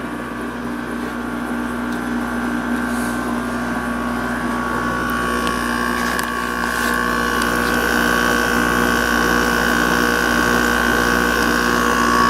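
LG-built Whirlpool 5,000 BTU window air conditioner running with its compressor on and its fan on high, cooling: a steady fan rush and compressor hum, with a higher steady whine that grows a little louder about halfway through.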